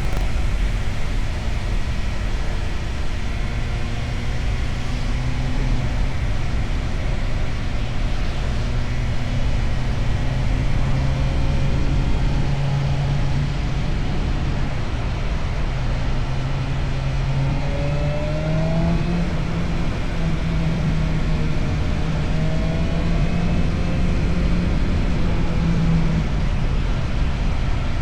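Motorcycle with an Akrapovic aftermarket exhaust running steadily under way, with a continuous low rumble. About two-thirds of the way through, its engine note steps up in pitch as the rider opens the throttle.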